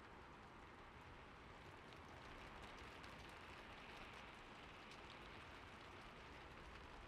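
Gentle steady rain, a soft even hiss, with a few faint scattered clicks.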